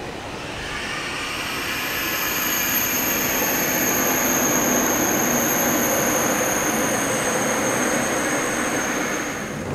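A TGV Duplex double-deck high-speed train running past on the track, a steady rushing rail noise that swells over the first couple of seconds and then holds. A thin, high-pitched whine runs through it.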